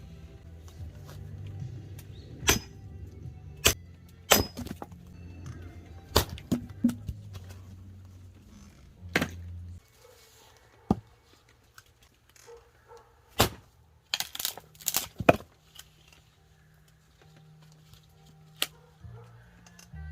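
Irregular sharp knocks and cracks of chopping on wood, some ringing, with background music underneath.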